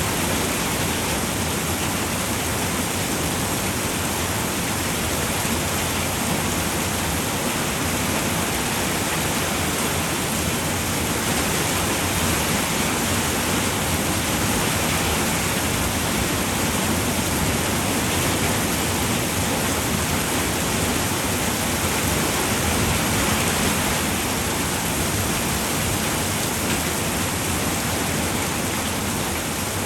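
Steady rain falling on a roof, an even hiss with no separate drops standing out.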